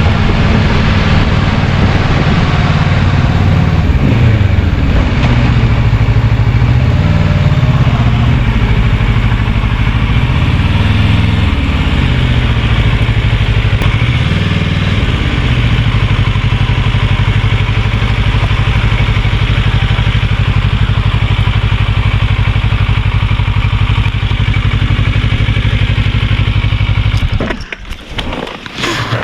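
Kawasaki Versys 650's parallel-twin engine running loud, its pitch rising and falling repeatedly for the first half, then holding steady. The engine sound stops suddenly near the end.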